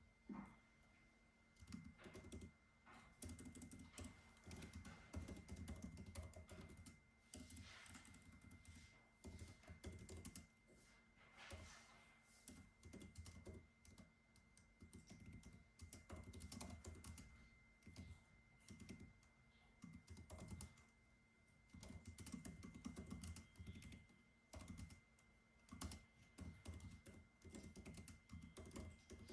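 Typing on a computer keyboard: quiet, irregular runs of keystrokes with short pauses between them, over a faint steady high hum.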